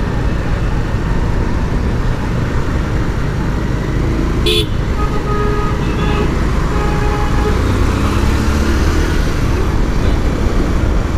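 Steady rumble of a motorcycle ride through city traffic, engine and wind noise on the rider's microphone, with short vehicle horn toots about halfway through.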